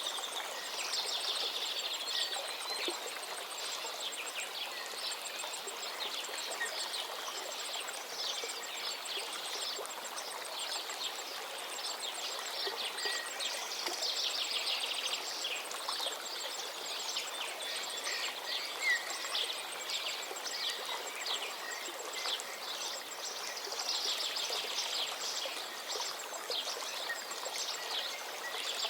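Songbirds singing, with a steady run of fast trills and chirps, over the constant rush of flowing river water.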